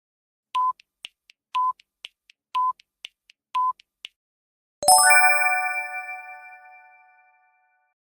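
Quiz countdown sound effect: four short beeps a second apart with faint ticks between them, then a bright chime about five seconds in that rings and fades away over about two seconds.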